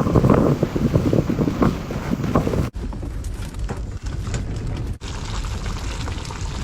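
Strong wind buffeting the microphone in loud gusts, dropping abruptly about two and a half seconds in to a quieter steady wind rush.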